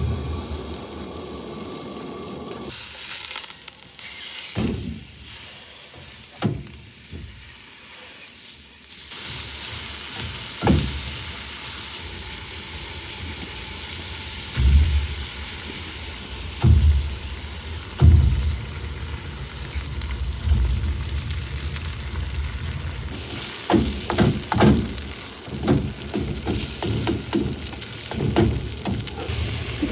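Food sizzling as it fries in a pan, a steady hiss with occasional knocks and thuds from the pan and utensils being handled.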